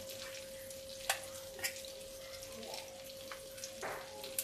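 Batter-coated eggplant slices shallow-frying in a nonstick pan: a steady sizzle with scattered sharp crackles, over a faint steady hum.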